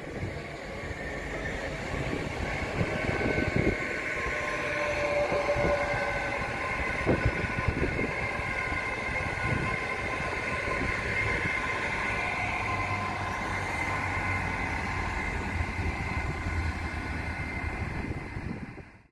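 Two Hitachi Class 802 trains, one passing along the far line and one standing at the platform, make steady running noise. A few sharp wheel clicks come in the first half, high steady whines are heard throughout, a low rumble builds in the second half, and the sound fades out quickly at the very end.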